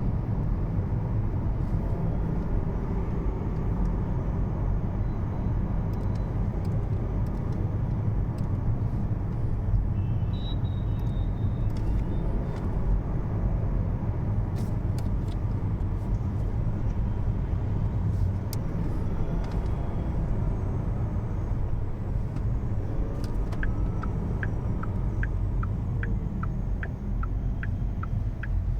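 Electric car driving, with no engine sound: a steady low road and tyre rumble with a few scattered clicks. A regular high ticking, about two and a half ticks a second, starts near the end.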